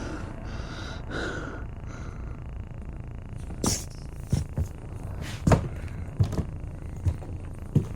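Several irregular knocks and thumps, spaced unevenly, starting about halfway through, over a steady low rumble.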